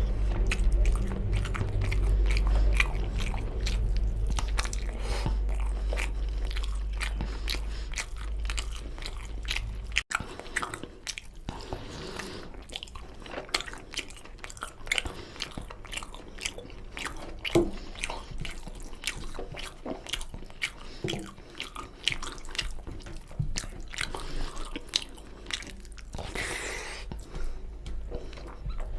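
Close-miked eating of mutton nalli curry with rice: chewing and biting with many short crunches and clicks.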